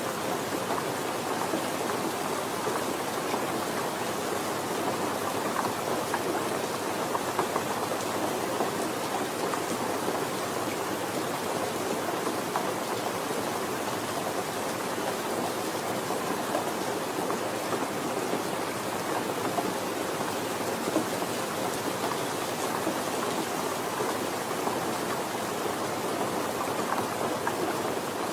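Steady rain falling, an even hiss of many drops with small crackling patter throughout.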